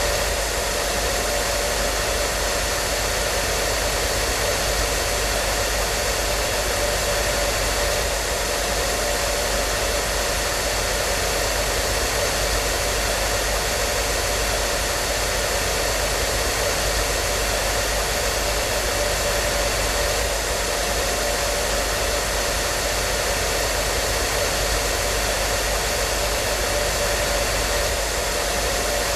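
Hair dryer running steadily: an even rushing of air with a steady motor hum pitched above it, unchanging throughout.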